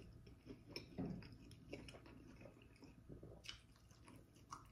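Faint close-miked chewing of a mouthful of birria pizza, with a few soft mouth clicks.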